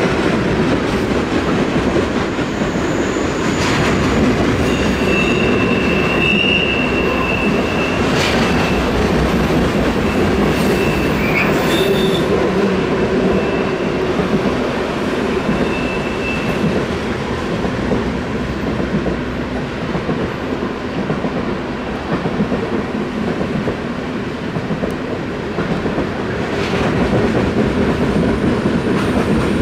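Sulfur-loaded freight cars rolling past: a steady rumble of steel wheels on rail with occasional knocks, and thin high wheel squeals several times in the first half.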